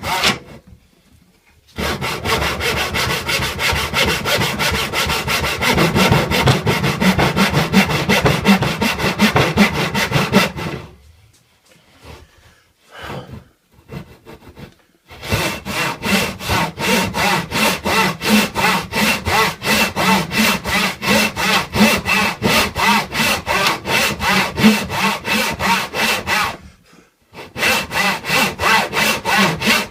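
Handsaw cutting wood with quick, even back-and-forth strokes. The sawing stops briefly near the start, for a few seconds in the middle, and briefly near the end.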